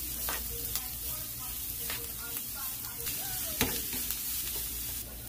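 Cauliflower rice sizzling in hot avocado oil in a frying pan, stirred with a spatula that scrapes and taps against the pan a few times.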